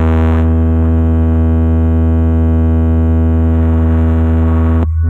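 Loud synthesized bass drone from a DJ speaker-test track: one steady, deep held tone with a buzzy stack of overtones. Its upper hiss drops out about half a second in, and near the end the tone is chopped into a few short stuttering pulses.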